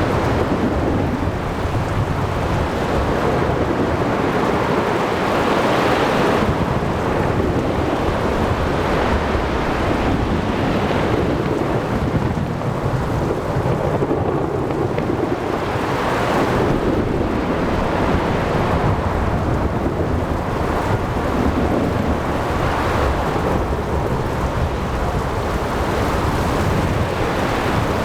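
Thunderstorm at sea: a continuous low thunder rumble under steady rain and wind, with waves washing in swells every few seconds.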